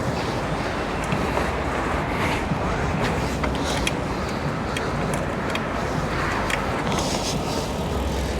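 Dirt bike riding noise: steady wind and road rush with the engine running underneath, and scattered small clicks and knocks.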